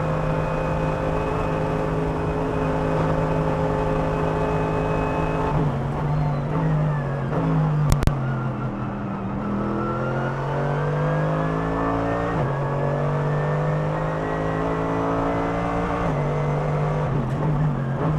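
Mercedes-AMG GT3's 6.2-litre naturally aspirated V8 heard onboard. It holds a steady high note flat out, then drops in pitch under braking and downshifts, with a sharp crack about eight seconds in. It then pulls up through the gears, with upshifts about twelve and sixteen seconds in.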